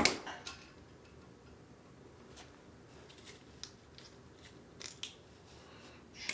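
Small metal clicks and ticks from washers and nuts being fitted onto a toilet's floor bolts: one sharp click at the start, then a few faint, scattered clicks.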